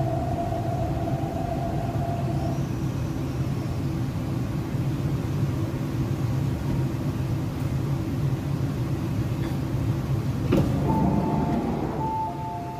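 MTR East Rail Line R-train, a Hyundai Rotem electric multiple unit, heard from inside the car as it slows into a station: a steady running rumble, with a level whine that stops about two and a half seconds in. Near the end, as the train comes to rest, there is a sharp click followed by a short two-tone beeping.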